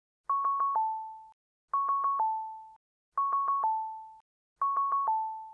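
Electronic alert tones, typical of a low-battery warning from a cochlear implant sound processor: four quick high beeps and then a longer, slightly lower tone that fades out. The pattern repeats four times, about one and a half seconds apart.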